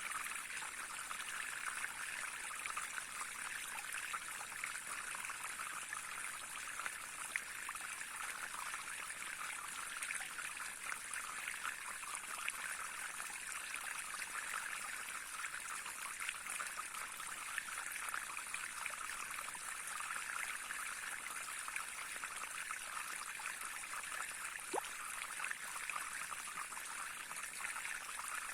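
A brook running and trickling over stones, a steady rushing and babbling with no pauses.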